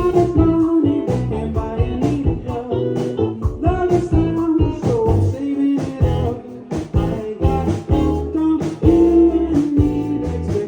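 Live rock band playing a song, with electric guitar, bass and drums and a lead voice singing over them; the drums keep a steady beat.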